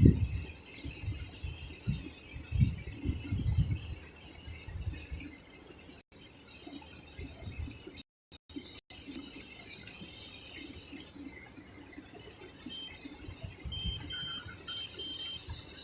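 Steady high-pitched chorus of night insects calling, with soft low bumps and rustles underneath. The sound drops out briefly twice near the middle.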